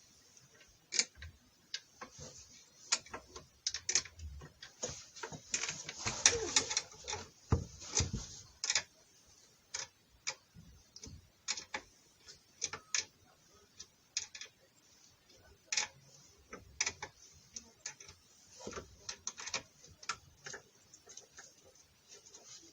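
Irregular metallic clicks and taps of a wrench working on the bolts of a skateboard's trucks as they are being undone.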